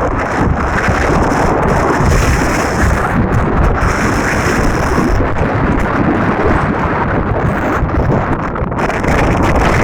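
Loud, steady rushing of floodwater in a wadi, with wind buffeting the microphone.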